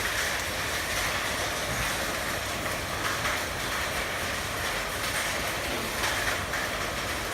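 Heavy hail falling: a dense, steady clatter of hailstones striking hard surfaces.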